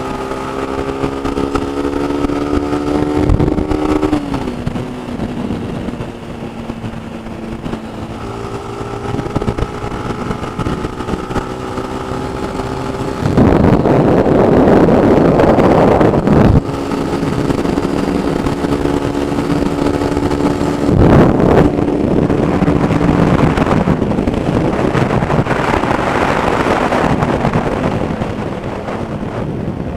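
Honda CG 160 Fan motorcycle engine running at a steady high cruising speed. Its pitch drops about four seconds in and again near the end. Wind buffets the microphone heavily through the middle.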